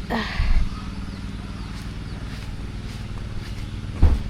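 An engine idling steadily, with two loud thumps, one about half a second in and one near the end.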